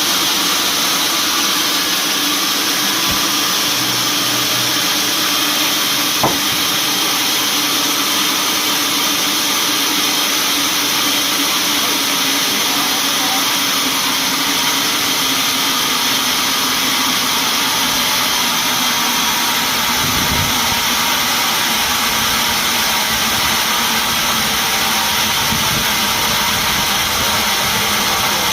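Sawmill machinery running steadily, a constant loud mechanical noise, with one sharp knock about six seconds in.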